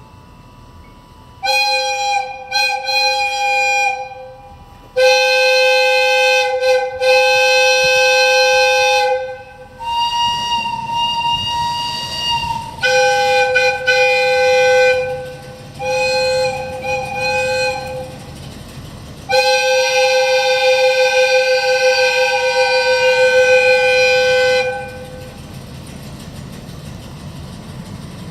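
Air whistles of Sangi Railway ED45 and ED301 electric locomotives sounding a series of blasts: two short toots, then longer blasts of a few seconds each. One blast in the middle is at a higher pitch, and a final long blast lasts about five seconds. A low steady rumble remains near the end.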